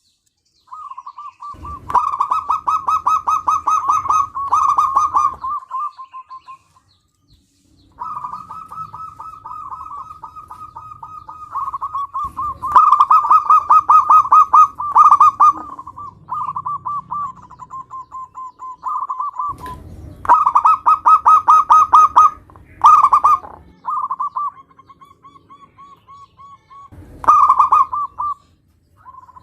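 Zebra dove (perkutut) cooing: runs of rapid staccato notes, phrase after phrase with short pauses between, some quieter and others swelling into louder, fuller bursts.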